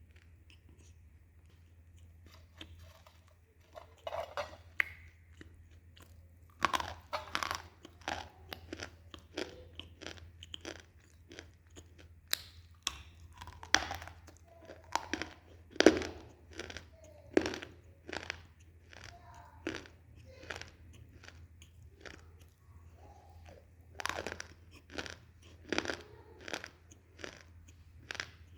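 Close-miked crunching and chewing of baked edible clay: sharp, irregular crunches, often more than one a second, starting a few seconds in and easing off in a lull about two-thirds through before picking up again.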